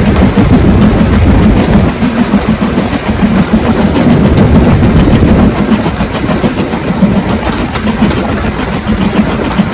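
Train running by on the rails: a loud, steady rumble.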